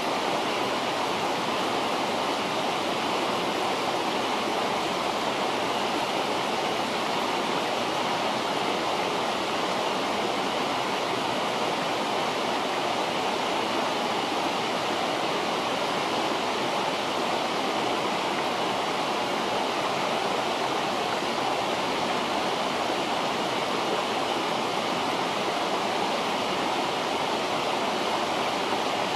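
River water rushing steadily: a constant, even hiss without breaks.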